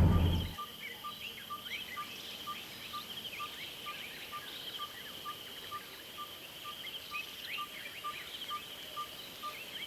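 Low vehicle engine noise cuts off about half a second in. It gives way to a bush dawn chorus: one bird repeats a single short note about three times a second, over a steady high insect trill and scattered chirps of other birds.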